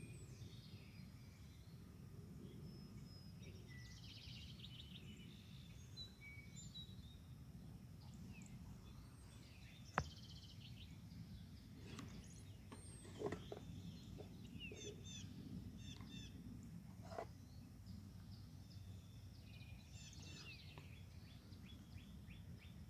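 Several wild birds singing and calling faintly, with short chirps and quick repeated trills throughout, over a steady low background rumble. A single sharp click about ten seconds in.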